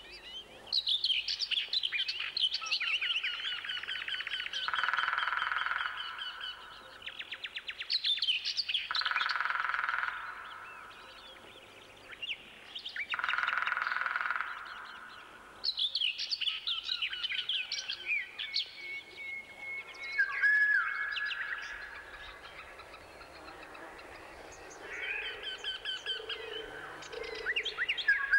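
Songbirds singing and chirping, several overlapping, with rapid trills and a longer phrase recurring every few seconds.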